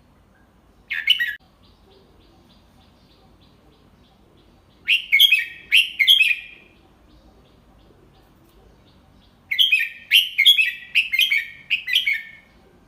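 Red-whiskered bulbul singing: a short call, then a three-note phrase, then a longer phrase of about six quick notes, with pauses between them.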